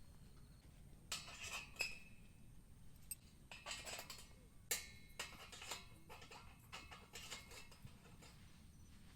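Camp gear being handled: a scattered series of light clinks, knocks and rustles, in clusters with short pauses between them.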